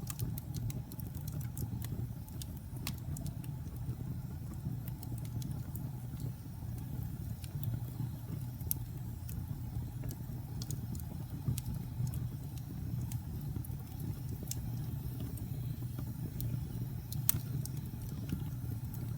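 Fire burning in a fireplace: a steady low rumble of flames with scattered sharp crackles and pops, one louder pop near the end.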